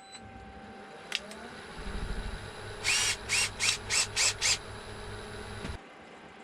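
An electric motor runs steadily for about four seconds and then cuts off abruptly, with a click before it starts and a run of about six quick high squeaks in the middle.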